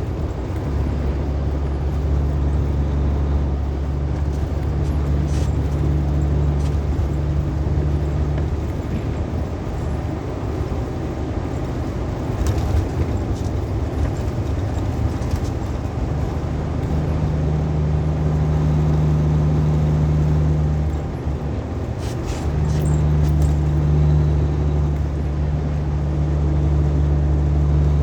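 Truck driving on the road: a steady engine and road drone with a low hum that fades out and comes back twice.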